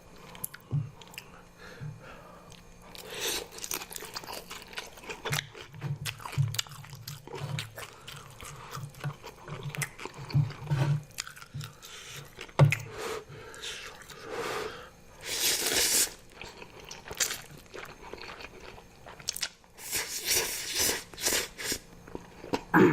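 Close-miked eating: chewing, biting and crunching of food, with many short mouth clicks and a couple of longer hissy stretches about two-thirds of the way in and near the end.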